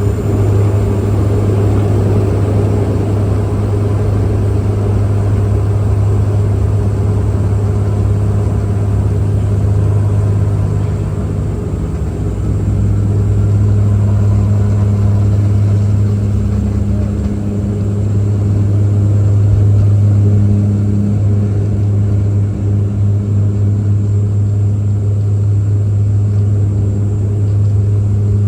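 Cabin drone of a Bombardier Dash 8 Q400's turboprop engines: a loud, steady, low propeller hum with weaker tones above it and a faint high whine.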